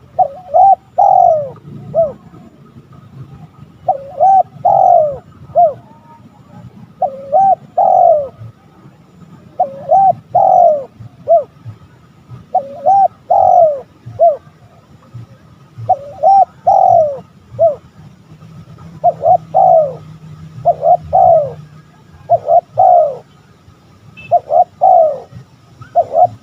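Male spotted dove cooing: a phrase of about three coos, repeated every two to three seconds.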